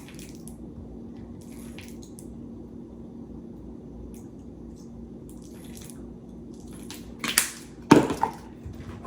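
Steady low hum in a small kitchen with a few light clicks, then two sharp knocks near the end, like items being set down on a counter.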